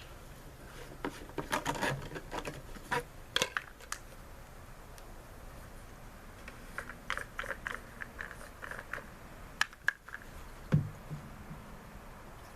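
Scattered light clicks and taps of hands working on a lawnmower's fuel line and fittings, with a dull knock near the end.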